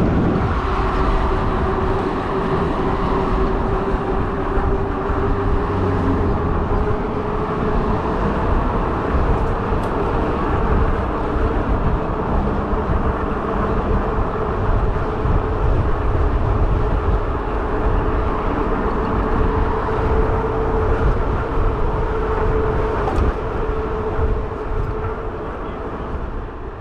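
Fat-tire e-bike riding along: a steady hum of the tyres and drive whose pitch creeps slowly upward, with wind rumbling on the microphone. The sound eases off a little near the end.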